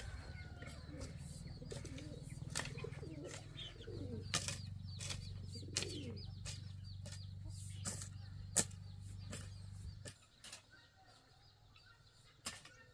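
Farmyard birds with pigeons or doves cooing and small birds chirping, among scattered sharp clicks and taps, over a low steady hum that cuts off about ten seconds in.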